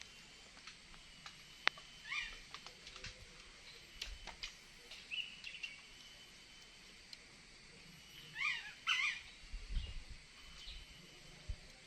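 A small bird calling in short chirps: scattered single notes, then two quick, louder calls close together about eight and a half seconds in, with a few faint clicks between them.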